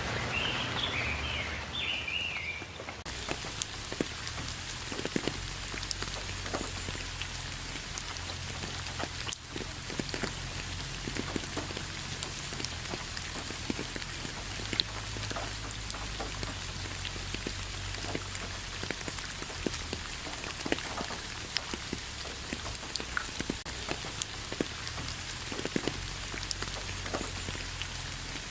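Steady rain falling, with many separate drops striking close by as quick ticks through the even patter. A short chirping call sounds over the rain in the first few seconds.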